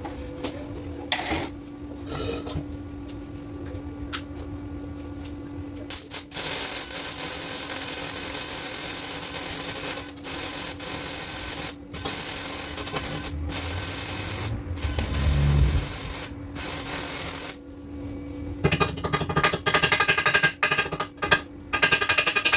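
Power-tool metalwork on a car's exhaust pipe: long bursts of harsh, crackling noise that stop and start with short breaks, over a steady low hum, turning into a sharper rattling, pitched sound near the end.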